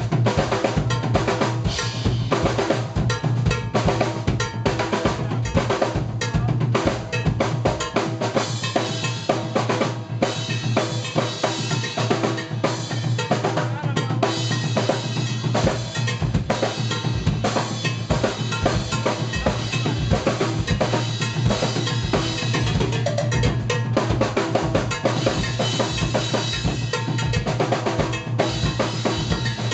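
Live jazz-funk band playing, with a busy drum kit of kick, snare rimshots and cowbell driving a fast groove over bass and keyboards.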